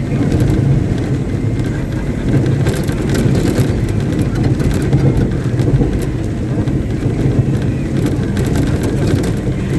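Caterpillar 777D off-highway haul truck's V8 diesel engine running steadily, a loud, continuous low-pitched hum.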